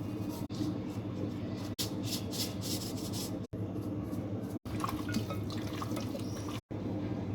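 Wet kitchen sounds of liquid and food, dripping and splashing, over a steady low hum, broken by several abrupt cuts.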